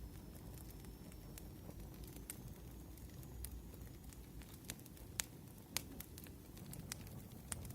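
Firewood burning, with sporadic sharp crackles and pops over a low, steady rumble. The loudest pops come a little past the middle.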